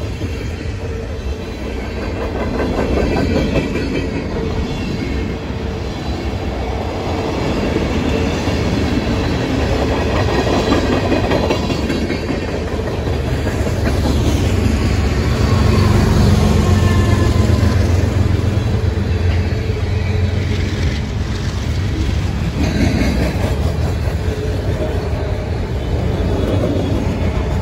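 Freight train of tank cars passing close by, a steady rumble of steel wheels on rail with clickety-clack over the rail joints, growing somewhat louder around the middle.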